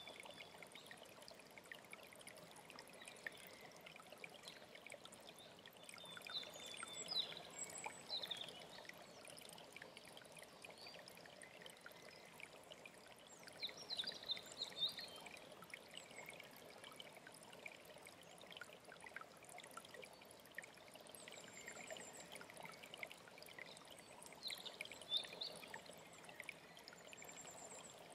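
Faint, steady flowing water, with a songbird singing short high phrases three times, about a quarter of the way in, halfway and near the end.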